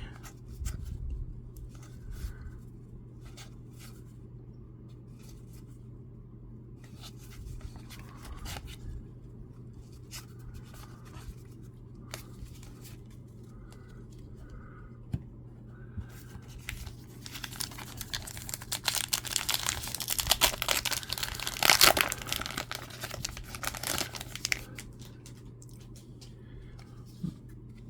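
Scattered small clicks and rustles of trading cards and packs being handled. Past the middle comes a long stretch of crinkling and tearing as a baseball card pack wrapper is torn open, loudest near its peak before it dies back down.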